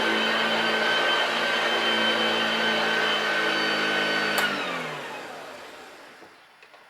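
Hoover Junior (model 1348) upright vacuum cleaner running with a steady whine, then switched off with a click about four seconds in; the motor winds down, its pitch falling as it fades away.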